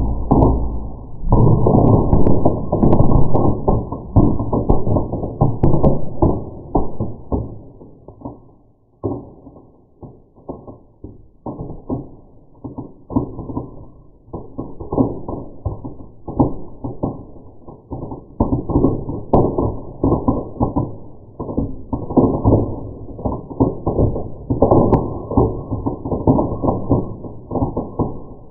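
Burning birch bark in a fireplace crackling and popping in a dense, irregular stream of low thuds, easing briefly about a third of the way in before picking up again.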